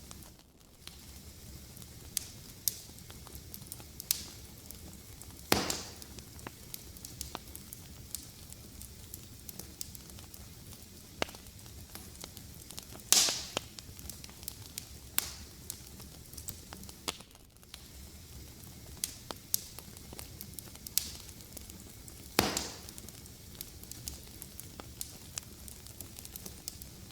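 Fireplace fire crackling: a steady soft hiss with frequent small, sharp cracks at irregular intervals and a few louder pops, the loudest about halfway through.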